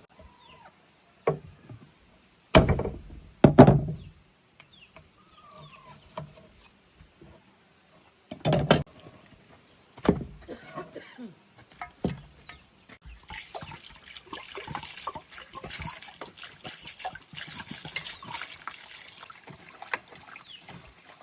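A few sharp knocks and thuds of things being handled, the loudest a little over two and a half seconds in. Then, from about halfway through, a stretch of water splashing and trickling with small clatters.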